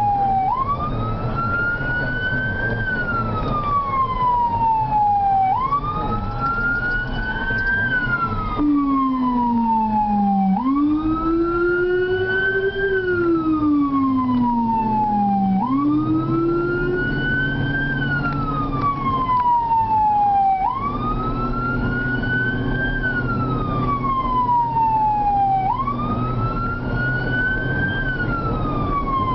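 A fire apparatus siren sounds a wail, rising and falling in a cycle of about every five seconds, over the rumble of the vehicle running under way on an emergency response. In the middle a second, much lower siren sweeps down and up.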